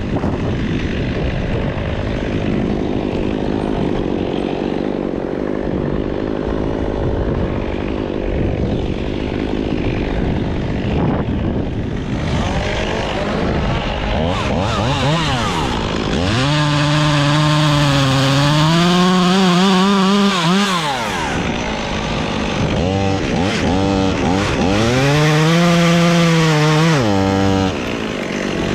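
Gas chainsaw running at full throttle, its pitch sagging and recovering as it loads up in the wood. It comes in strongly about halfway through, pauses briefly, and runs again near the end, after a stretch of steady rough noise.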